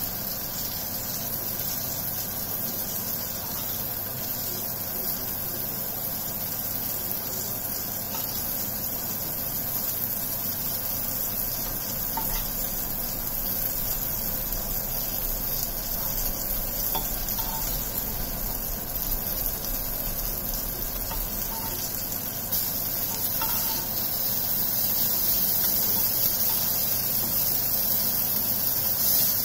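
Aubergine slices frying in hot oil in a pan: a steady sizzle, with a few faint ticks of a spatula against the pan as the slices are turned and lifted out.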